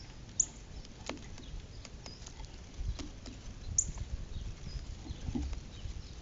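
Northern cardinal giving two sharp, high chip notes about three seconds apart, with fainter chips between. Scattered light clicks and scratches come from the bird digging for food in the snow.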